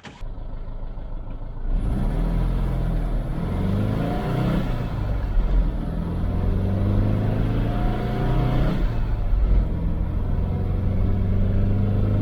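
1962 Volkswagen Beetle's air-cooled flat-four accelerating hard from a standstill. The pitch climbs, drops back at a gear change about five seconds in, climbs again, and drops at another change about nine seconds in.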